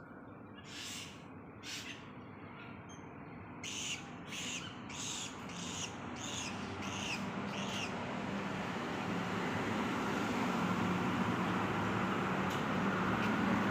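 Swiftlet calling: a run of short, high calls repeated about twice a second, stopping about halfway through. Then a vehicle approaches, its steady noise growing louder.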